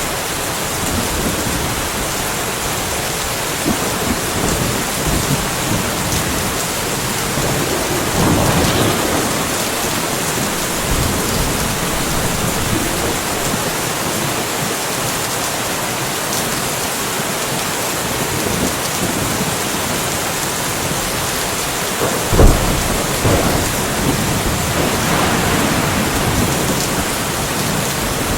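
Steady rainfall with thunder. A rumble swells about a third of the way in, then a sharp close thunderclap about two-thirds of the way in is followed by several seconds of rolling rumble.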